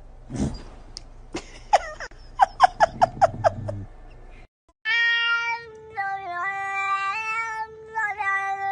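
Domestic cat meowing: a quick run of short meows, about three a second, then after a brief break a long drawn-out call with small steps in pitch.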